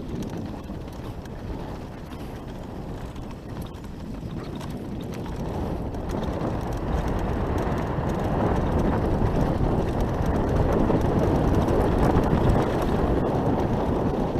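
Wind rushing over the camera microphone and a mountain bike's tyres rumbling and rattling down a dirt trail. The sound grows steadily louder over the first half as the bike picks up speed downhill.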